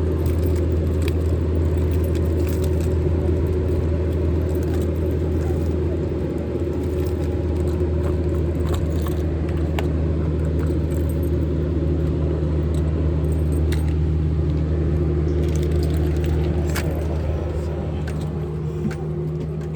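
A motor vehicle engine idling steadily with a low, even hum, with scattered small clicks and jingles on top.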